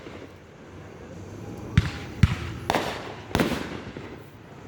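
Fireworks going off: two sharp bangs about half a second apart, then two louder booms that ring out.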